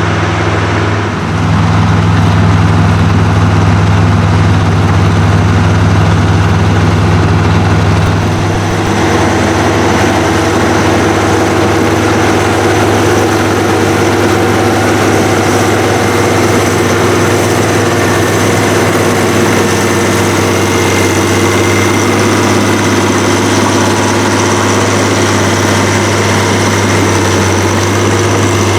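Heavy diesel engines of a crawler tractor and a farm tractor running under load during deep plowing, a steady low drone. The note steps up about a second in and shifts again around nine seconds in.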